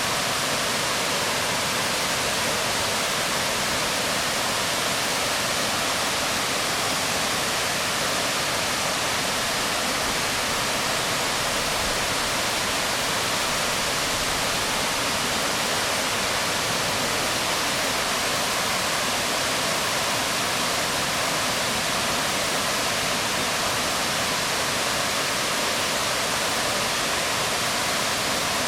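Waterfall splashing onto rocks: a steady, unbroken rush of water, strongest in the hiss range.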